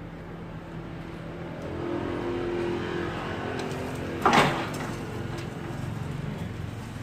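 A motor vehicle engine running steadily, growing a little louder for a couple of seconds, with one brief loud falling sound a little after four seconds in.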